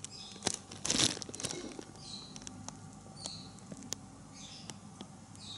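Handling noise from a leather knife sheath: irregular rustling and scratching with light clicks, loudest about a second in, and faint short high squeaks recurring every second or so.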